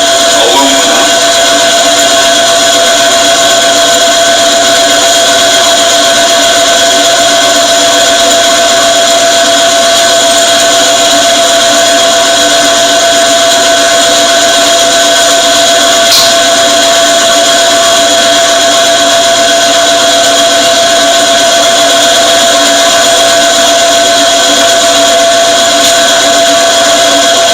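Power drill motor running steadily with an annular cutter boring through metal, a loud, even whine that holds its pitch throughout. A brief click about 16 seconds in.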